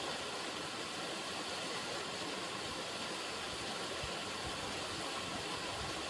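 River water running in a steady, even rush, with a few faint low thuds a little over halfway through.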